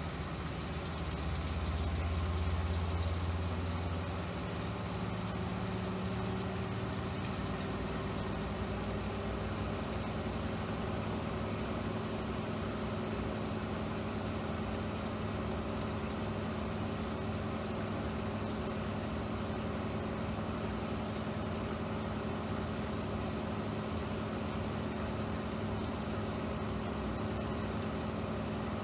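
An engine running steadily. It is louder for the first few seconds, and its pitch rises a little a few seconds in, then holds.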